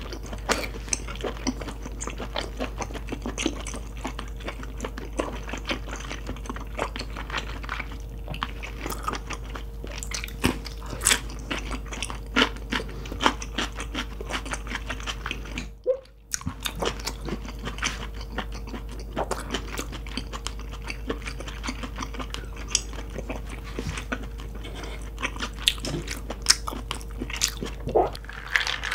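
Close-miked chewing of lobster meat with the mouth closed: a steady run of small, irregular wet clicks and smacks, broken by a brief gap about halfway through.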